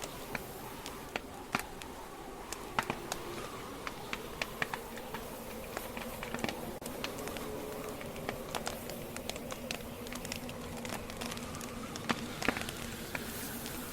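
Wood campfire burning, its logs crackling with irregular sharp pops over a steady hiss, with a faint wavering whistle from the burning wood.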